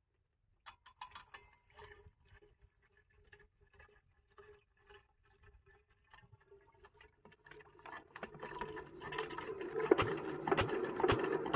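A 12 hp single-cylinder diesel pumpset engine starting: faint clicking for most of the first seven seconds, then from about eight seconds in its slow, even firing beats build up steadily louder, about two to three a second.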